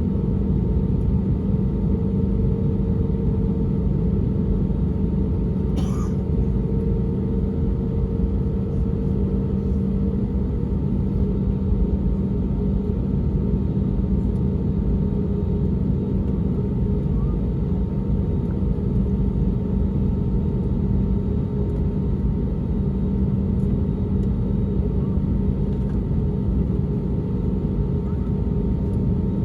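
Steady rumble and hum of an Airbus A320neo's CFM LEAP-1A engines and airflow, heard from inside the passenger cabin, with a brief click about six seconds in.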